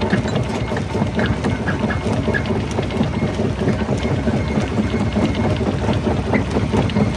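Jaw crusher running under load, stone crunching and gravel rattling through it as many small cracks over a steady low rumble.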